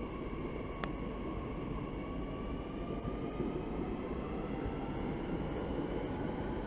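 SNCF Z 50000 'Francilien' electric multiple unit pulling away, its traction motor whine slowly rising in pitch over a steady rumble as it gathers speed. A single sharp click about a second in.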